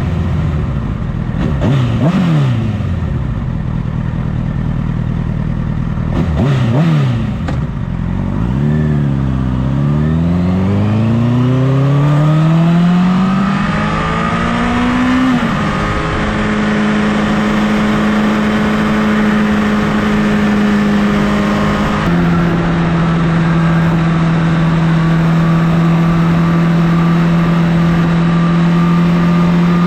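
Honda CBR1000RR inline-four sport-bike engine under way: the revs dip and rise quickly twice, then climb steadily for about six seconds. Upshifts come about halfway and two-thirds through, and in between the engine holds a steady cruising pitch, with wind noise throughout.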